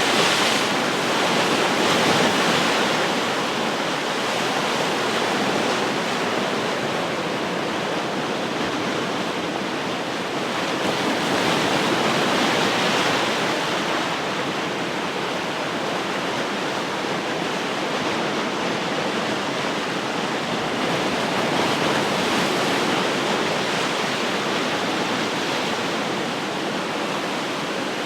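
Ocean surf: a steady wash of breaking waves that swells gently every several seconds.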